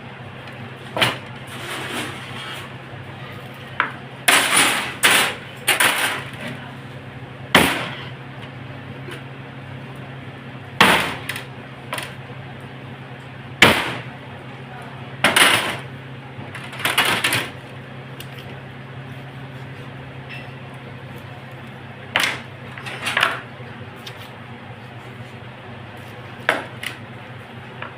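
A series of irregular sharp knocks and clatters, about a dozen, some ringing briefly, over a steady low hum.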